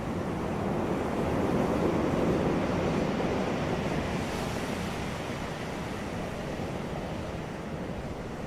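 Ocean waves breaking on a beach: a steady rush of surf that swells about two seconds in and then slowly eases back.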